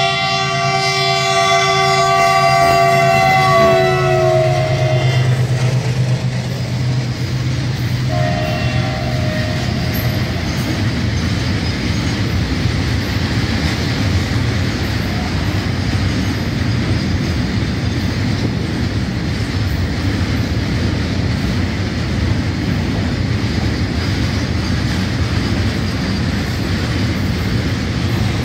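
A goods train's locomotive horn sounding a long blast that drops in pitch around four seconds in as it passes, then a short second blast about eight seconds in. A long rake of petroleum tank wagons then rolls past with steady wheel-on-rail noise.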